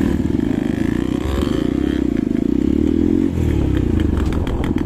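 Hero Xpulse 200 single-cylinder motorcycle engine running steadily, its note shifting in pitch for a couple of seconds in the middle.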